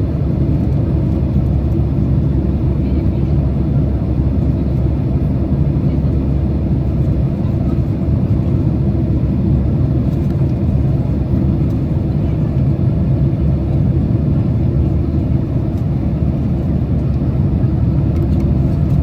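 Steady low rumble inside a Boeing 767's passenger cabin on approach: engine and airflow noise heard through the fuselage, even and unbroken.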